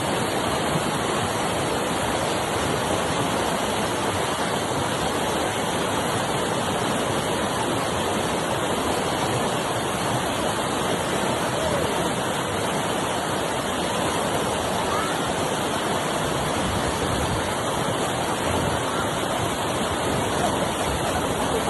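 Rushing whitewater of river rapids, a steady dense noise that does not let up.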